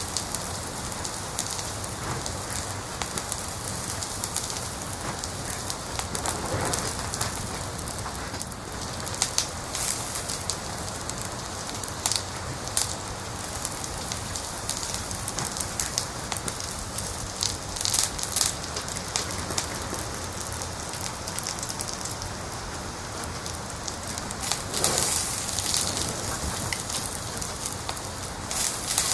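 Wood fire crackling in a fireplace: a steady hiss of burning with frequent sharp pops and snaps, coming in denser clusters several times.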